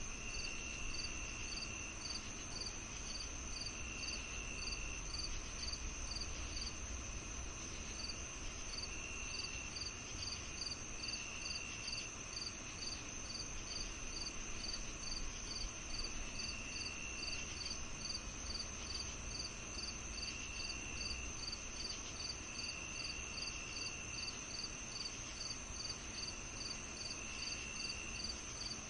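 Summer-evening chorus of crickets and other insects: a continuous high trill, a regular chirp about twice a second, and a lower trill that comes in bursts of about a second every few seconds.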